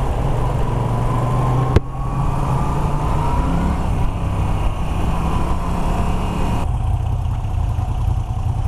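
Moto Guzzi V9 Roamer's 850 cc transverse V-twin running steadily while riding, with a single sharp click about two seconds in.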